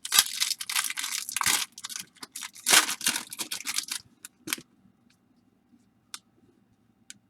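Baseball card pack wrapper being torn open and crinkled by hand for about four seconds, followed by a few faint clicks as the cards are handled.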